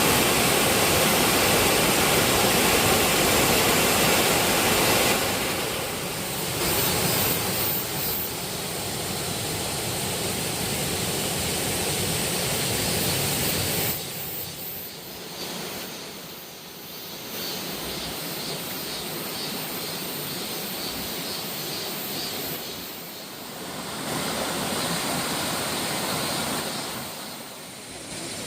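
Waterfall water rushing and splashing, a steady noise that drops in level about five seconds in and again around fourteen seconds.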